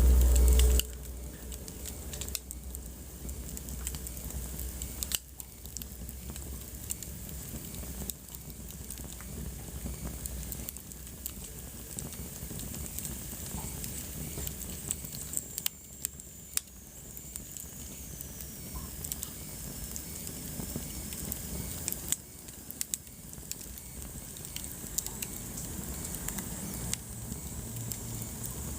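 Wood fire crackling in a fireplace: a steady hiss with frequent sharp pops and snaps. A loud low rumble comes in the first second, and a faint high whistle falls slowly about halfway through.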